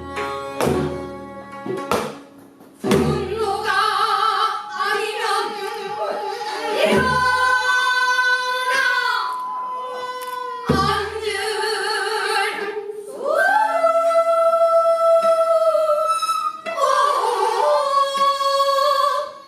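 Korean traditional music in a newly composed pansori: deep buk drum strokes, a few times, under long, wavering, sliding melodic lines.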